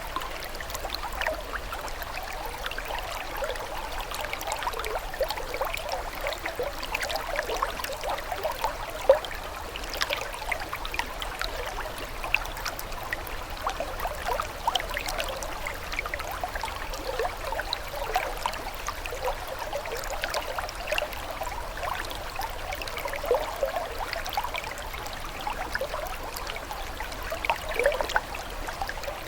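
Running water trickling and gurgling steadily, with a constant scatter of small bubbling plinks and one slightly louder splash about nine seconds in.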